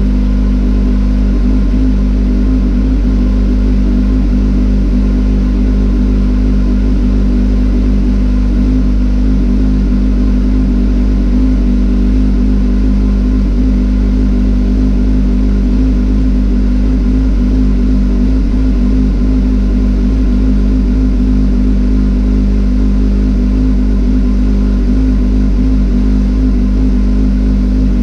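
Motorcycle engine running at a steady cruising speed, an even drone with heavy low rumble that holds unchanged throughout.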